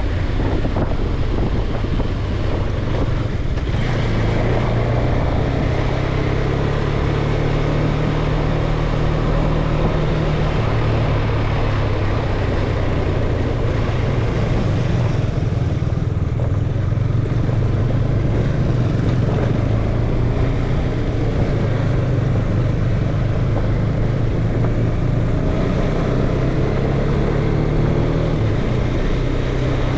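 Wind rushing over the microphone during a ride, over a steady low drone that drifts slowly up and down in pitch.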